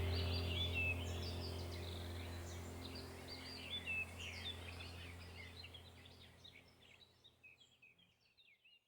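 Small birds chirping and twittering over a low steady hum, the whole ambience fading out gradually to silence near the end.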